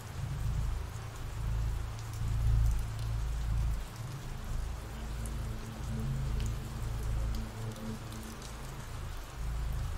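Recorded rain falling steadily as a continuous hiss, with a low rumble underneath that swells and fades every second or two.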